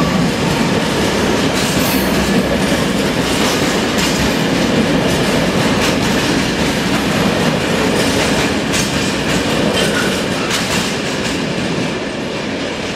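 Container wagons of a freight train rolling past, a steady loud rumble with wheels clacking over the rail joints. The noise eases a little near the end.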